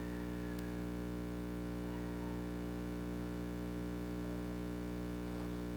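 DJI Air 3S drone's propellers humming steadily, a constant buzz of several even tones that does not change in pitch.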